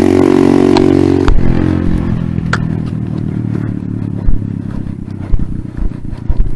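A motor vehicle engine running steadily, cutting off abruptly a little over a second in. After that comes a fainter engine rumble with scraping and a few knocks.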